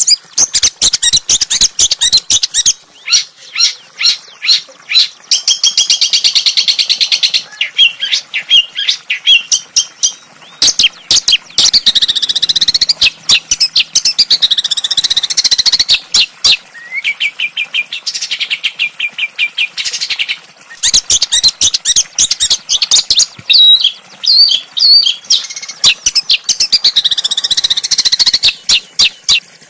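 Small songbird singing fast, sharp chips and rattling trills, high-pitched, in quick phrases broken by short pauses.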